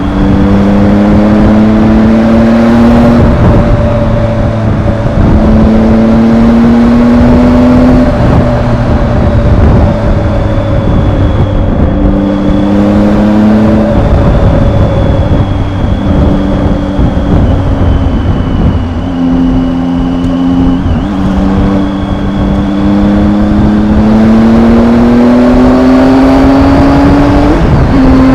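Triumph motorcycle engine under way, its pitch climbing as it pulls and then dropping at each gear change, about five times, over steady road and wind noise.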